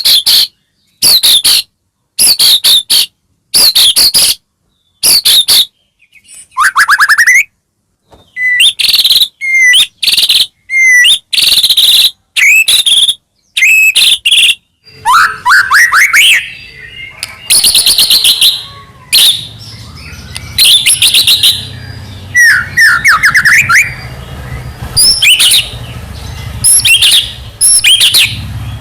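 White-rumped shama (murai batu) in full song: loud phrases of whistles, rising slurred notes and rapid chattering. The phrases are short and separated by pauses at first, then run into a near-continuous stream about halfway through. It is the kind of song played to provoke other shamas into singing.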